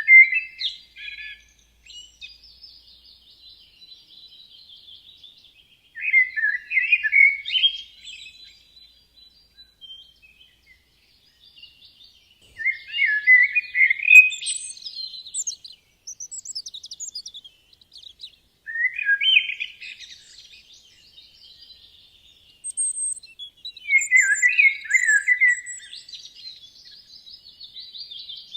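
Forest songbirds singing: one bird repeats a loud, quick warbling phrase about every six seconds, five times in all, while fainter high chirps and twitters from other birds fill the gaps.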